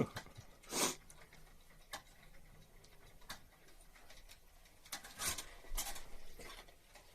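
A few short scraping rasps and scattered light ticks of hand tool work, coming irregularly: a sharp one at the start, another just under a second in, and a cluster a little after five seconds.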